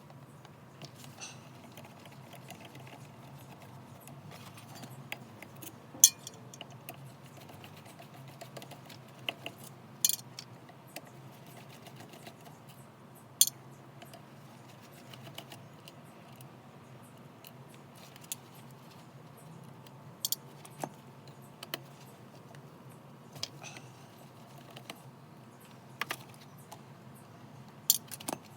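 Scattered sharp metallic clicks and clinks of tools and parts being handled while a Daihatsu Hijet alternator is taken apart, over a low steady hum.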